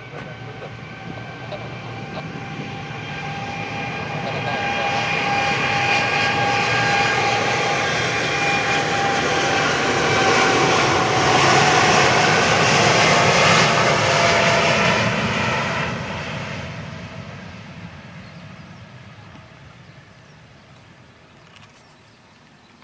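Boeing 787-8 airliner with Rolls-Royce engines on its takeoff roll: a jet rush with steady whining tones that grows loud, peaks about twelve seconds in, then fades away over the last several seconds as the aircraft moves off. The engines are fairly quiet for a jet.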